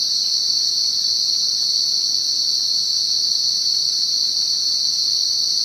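Dense chorus of night-calling crickets: a loud, continuous high-pitched trill that holds steady without a break.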